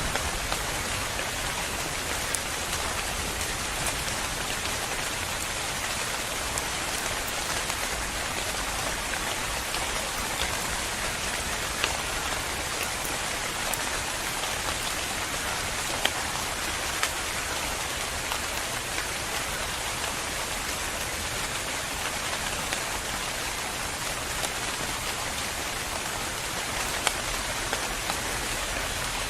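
Steady rain falling, an even hiss with scattered individual drop ticks standing out now and then.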